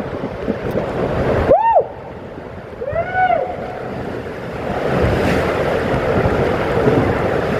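Rushing water and wind buffeting the phone's microphone on a raft waterslide ride, with two short rising-and-falling yells from the riders about one and a half and three seconds in.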